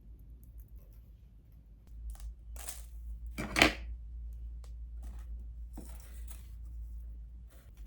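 Small objects being handled on a hard surface: scattered clicks, taps and short rustles, with one louder clatter about three and a half seconds in, over a steady low hum.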